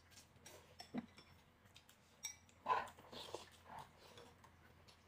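Faint eating sounds: chopsticks clicking against glass bowls, with soft slurping and chewing of noodles. A few scattered light clicks, and a louder mouth sound a little past halfway.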